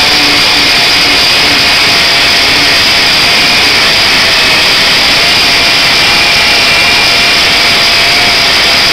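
Harbor Freight orbital air sander running steadily under air pressure while sanding spray paint off. It is a loud, continuous high air hiss with a thin steady whine beneath it.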